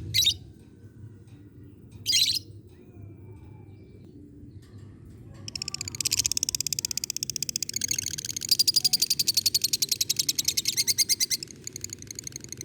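Lovebird giving two short sharp high calls, then from about five seconds in a long, very fast rattling chatter: the 'ngekek panjang' (long cackle) that keepers play to provoke other lovebirds into calling.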